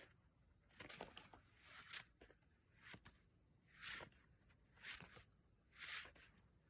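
Faint, soft swishing of a foxtail grass stalk brushed back and forth, about once a second, with a few light clicks between swishes.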